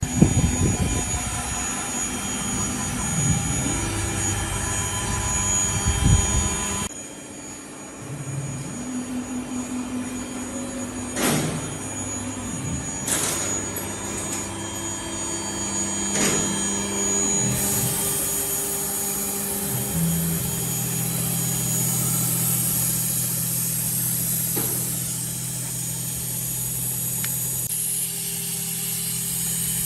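CNC lock-hole routing machine for aluminium door profiles running: a steady motor and spindle hum whose tones shift abruptly a few times, with a few short sharp clicks in the middle.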